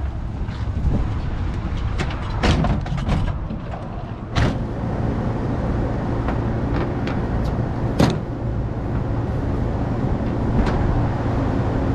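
Knocks and clatter from a work van's doors and stored parts being searched, over a steady low rumble; the sharpest knock comes about eight seconds in.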